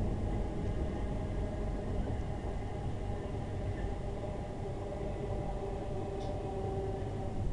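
A passenger train running on the line, heard from inside the carriage: a steady low rumble from the wheels and running gear, with a faint whine above it.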